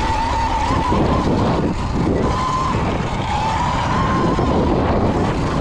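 Electric dirt bike riding a trail: the motor's high whine wavers up and down a little with the throttle, over a loud steady rush of wind and tyre noise.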